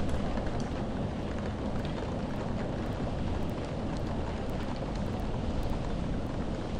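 Steady rainfall: a constant, even hiss and rumble with faint scattered drop ticks.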